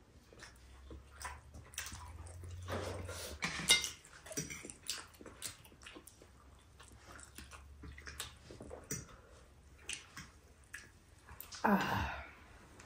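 Eating sounds: scattered small wet clicks and smacks of chewing, with a louder short mouth sound near the end.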